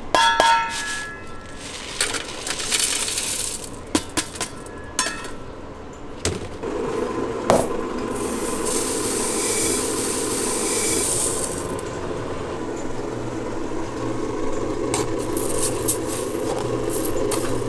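Hard metallic clinking and clattering for the first few seconds, then a steady running hum with a hiss from about six and a half seconds in, as the puffed-grain machine is loaded and its burner and drum get going.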